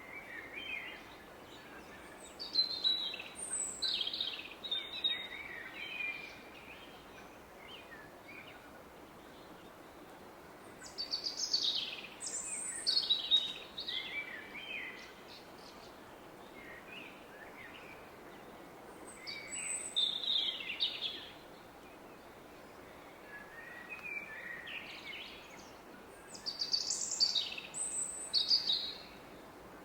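A songbird singing in woodland in short bright phrases, four bouts of a few seconds each, over the steady low rush of a distant river.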